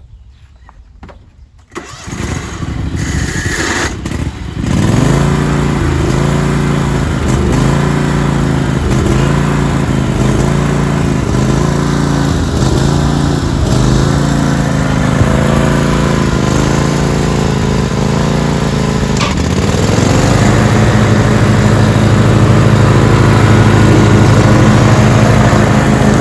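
Small garden tractor engine started about two seconds in, then running, its pitch dipping and recovering about once a second before settling into a steadier, slightly louder run near the end.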